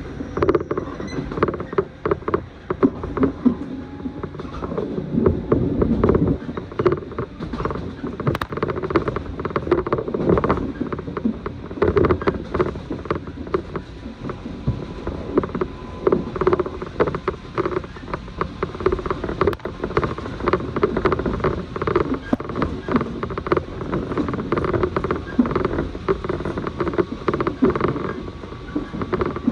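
Interior running noise of a moving train: a steady rumble of wheels on rail with frequent rattles and creaks from the carriage.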